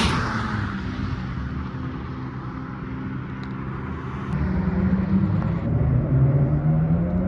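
A car engine running, with a sudden loud burst of noise at the start that dies away over about a second; the engine's pitch steps up about four seconds in and climbs again near the end as it gets louder.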